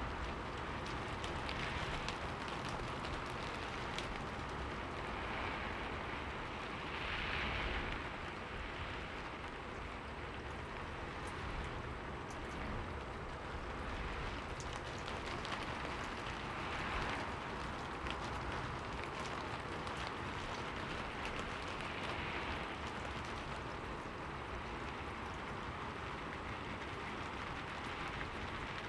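Steady rain falling on a window: a continuous hiss with many small drop ticks, swelling softly a few times.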